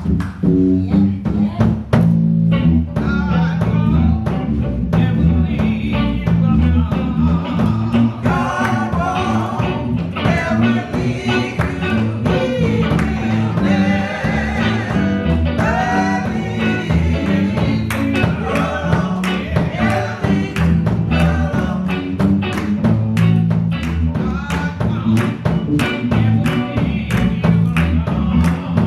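Gospel church choir singing with a live band, guitar and drums keeping a steady beat under a strong bass line.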